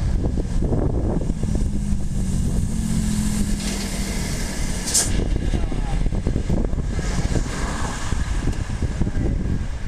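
Typhoon wind buffeting the microphone with a continuous low rumble. A steady low hum runs underneath for a couple of seconds near the start, and there is a brief hiss about five seconds in.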